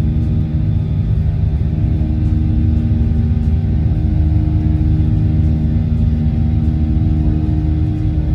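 Cabin noise of a Boeing 737-800 jet airliner from inside the cabin: a steady low rumble from the engines and airframe, with several steady engine tones running through it.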